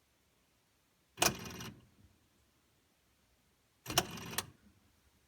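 Frigidaire side-by-side refrigerator clicking and rattling from the fridge side: two short sharp rattling bursts of about half a second each, roughly 2.7 seconds apart, a repeating fault noise that the owner suspects comes from the damper control assembly or the adaptive defrost control.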